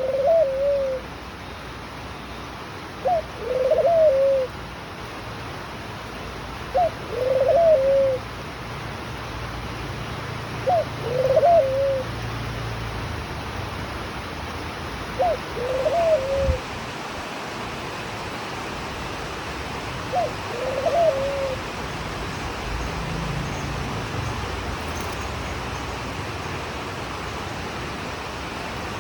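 A dove cooing: a repeated phrase of a short note followed by a longer two-part coo, given about every four seconds, six times.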